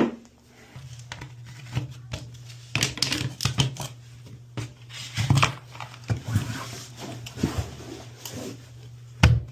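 Irregular scraping, rustling and clicking from hand work at an exposed toilet flange, over a steady low hum, with one louder knock near the end.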